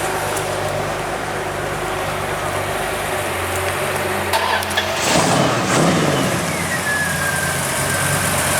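A car engine idling steadily, with a louder swell of engine noise about five seconds in.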